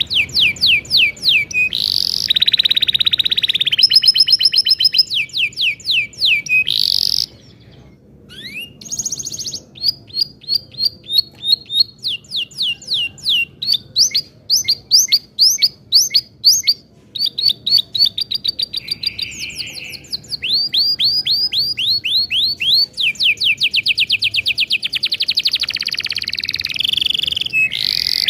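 Domestic canary singing a long, loud song of fast repeated trills and rolls, each phrase a rapid run of the same high note, with a short break about eight seconds in.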